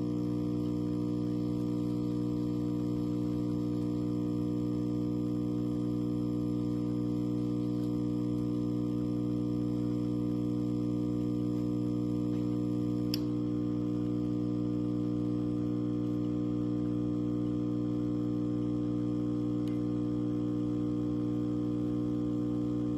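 A steady, unchanging hum made of many evenly spaced tones, with one faint click about thirteen seconds in.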